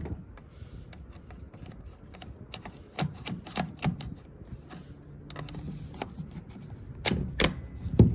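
Hard plastic clicking and knocking as a small battery hand-held chainsaw and its parts are handled and fitted together, with a few sharper snaps about three seconds in and again near the end.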